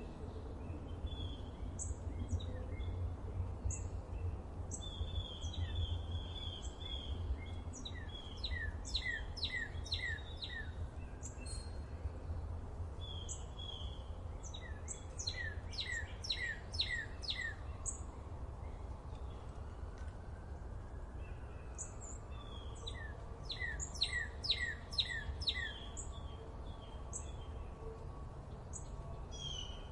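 Wild songbirds singing in repeated runs of quick, steeply falling notes, coming in three main bursts, over a steady low rumble.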